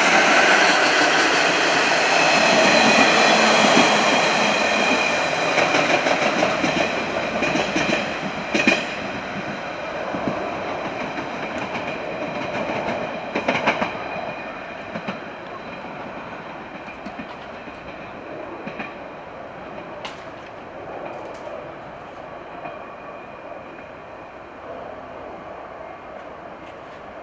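Freight train of an EF66 electric locomotive hauling two MR-600 railcars running past and moving away: wheels clattering over the rail joints, with sharp clicks here and there, fading steadily as the train recedes.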